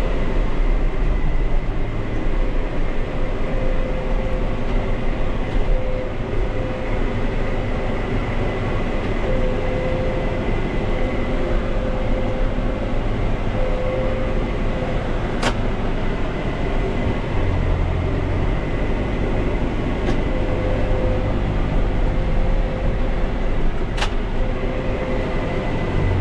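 Tractor engine running steadily under way, a constant drone with a steady whine over it. Two sharp clicks come about halfway through and near the end.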